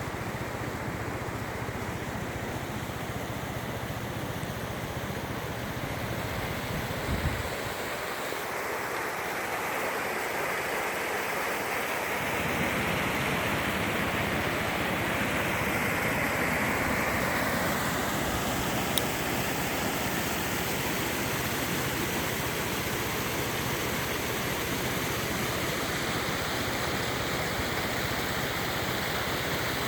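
Valley stream rushing steadily, with a brief low thump about seven seconds in.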